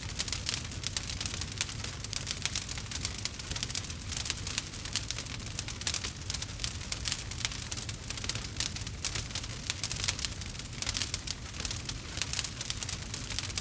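Campfire burning, the wood crackling and popping in dense, irregular clicks over a low, steady rumble.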